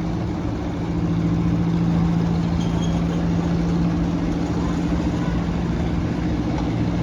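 Small narrow-gauge ride-on train's engine running with a steady, even hum.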